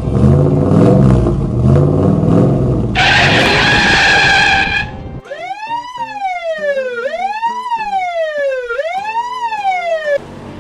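A wailing siren, its pitch rising and falling about three times over five seconds before it cuts off suddenly. Before it, a loud dense low rumble with a bright high blare about three seconds in.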